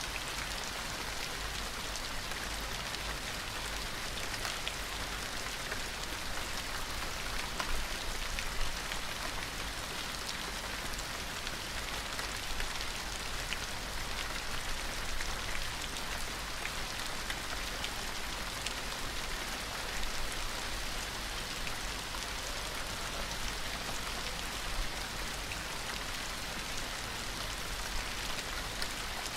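Steady gentle rain falling on a surface, an even hiss dotted with many small droplet ticks, now and then a slightly louder drop.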